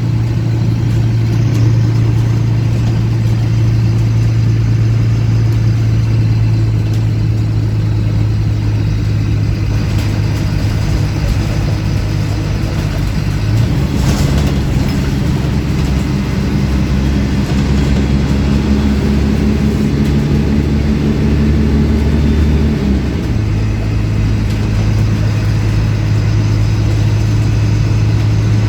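Diesel engine of a MAN 18.220 single-deck bus running, heard from aboard, with its exhaust louder than usual. The engine note shifts lower about halfway through and returns to its earlier pitch near the end.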